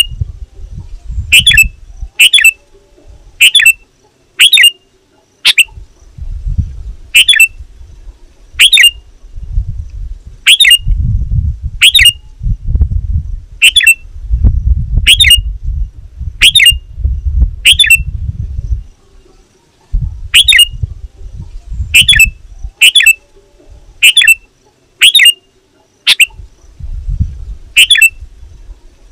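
Sooty-headed bulbul calling energetically: loud, sharp, repeated calls, each a quick downward sweep, about one a second with short pauses between runs. This is the bird's challenge call to rivals, used as a lure call. A low rumble comes and goes underneath.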